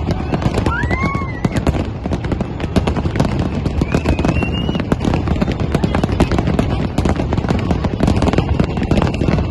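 Aerial fireworks display: a dense, unbroken barrage of bangs and crackling bursts, with a couple of short high whistling tones over it.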